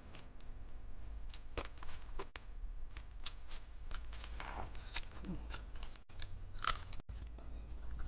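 Close-up mukbang eating: irregular crisp crunches and chewing, heard as many short clicks over a steady low hum, with a brief hummed voice sound about five seconds in.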